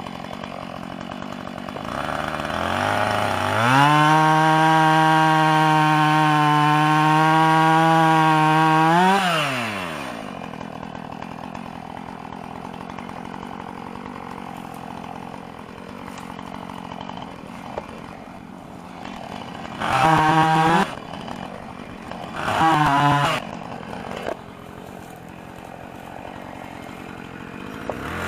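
Gas two-stroke chainsaw revved up to a high, steady full throttle for about five seconds, then dropping back to idle. It is then blipped twice briefly and starts revving up again at the very end.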